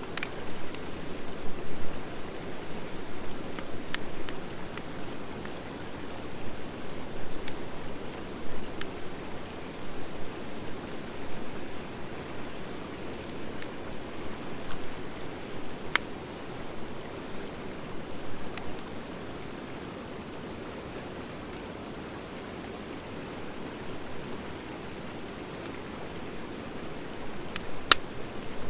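Wood fire of driftwood and dry hardwood burning with a steady rushing hiss, broken by scattered crackles and sharp pops, the loudest pop near the end.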